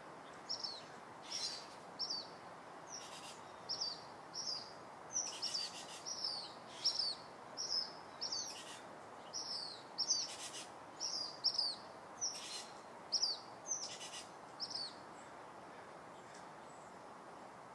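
Birds chirping over a steady background hiss: short, high, repeated calls, roughly one or two a second, that stop about three seconds before the end.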